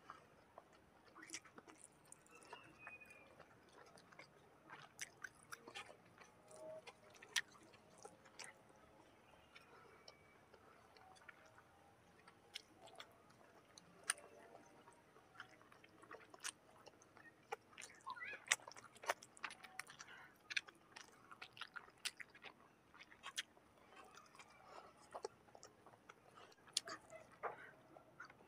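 Faint chewing and mouth sounds of a person eating rice by hand, with irregular wet smacks and sharp clicks throughout.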